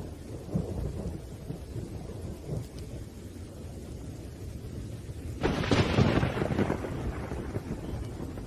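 Thunderstorm: a low rumble of thunder under steady rain, then a sudden sharp thunderclap about five and a half seconds in that fades over a second or two.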